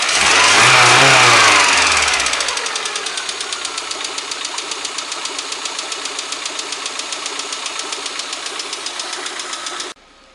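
VAZ-21124 16-valve engine briefly revved, then settling to idle with a rapid, even knock from the top end, which the owner suspects comes from worn camshafts. The sound cuts off suddenly near the end.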